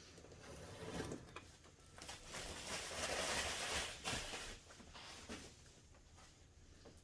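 Packaging being handled and unwrapped, rustling, with a few light knocks; the loudest rustle lasts about two seconds in the middle.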